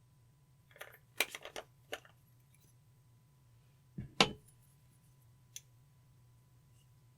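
Crackly clicks and taps from hands working slime and makeup: a quick run of small crackling clicks, then two sharp knocks a moment apart, the second the loudest, and one faint click near the end.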